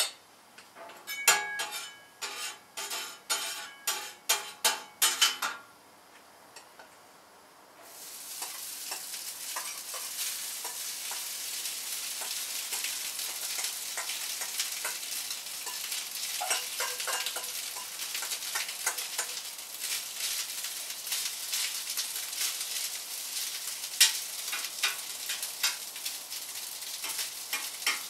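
A run of sharp metal clinks and taps with a short ringing tone, about a dozen in four seconds. After a pause, rice frying in a hot oiled pan sets in with a steady sizzle, stirred and scraped with a metal spatula.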